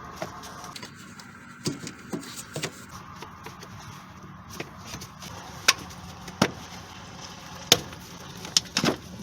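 Scattered clicks and light knocks of hand tools and hose clamps being handled while hoses are taken off an engine's intake, the sharpest in the second half.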